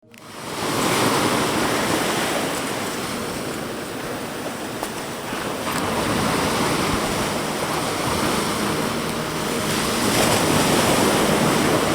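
Ocean surf breaking on a shore, fading in and swelling with each wave about a second in, around the middle and near the end.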